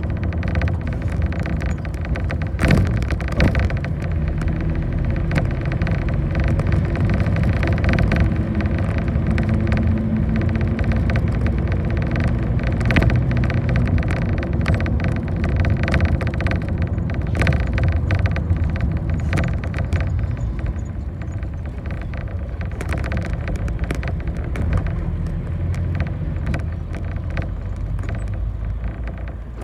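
A bus in motion heard from inside the cabin: the engine running with steady road noise, and frequent short rattles and knocks throughout.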